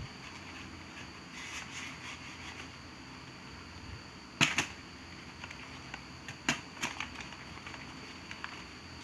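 A few scattered sharp clicks and taps, the loudest about halfway through and a small cluster shortly after, over a steady faint hiss.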